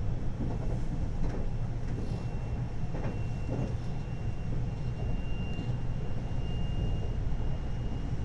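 A 521-series electric train running between stations, heard from inside the car: a steady low rumble of wheels on rail, with a few faint knocks and a thin high tone that comes and goes.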